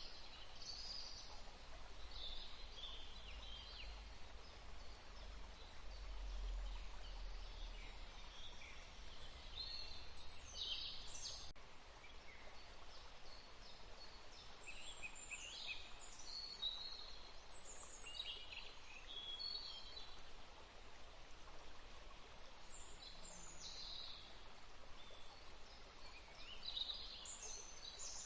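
Songbirds chirping and singing in short high calls, several at a time and scattered through, over a faint steady hiss of outdoor ambience.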